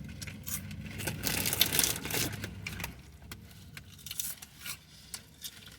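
Food and wrappers being handled while eating: scattered crinkles and clicks over a low steady hum that fades about three seconds in.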